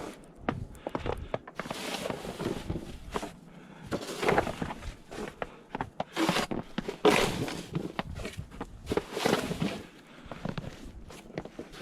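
Irregular crunching and scraping in snow, several rough bursts about a second apart, with no engine running.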